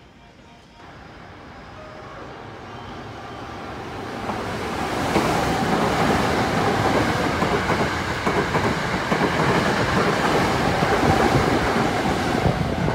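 Hankyu electric train passing through the station at speed without stopping. Its noise grows louder over the first five seconds, stays loud and steady as the cars go by, and falls off near the end.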